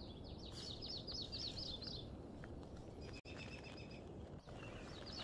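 A songbird sings a quick run of repeated short, high notes lasting about two seconds, then a brief single high call about three seconds in. Under it is a steady low outdoor background rumble.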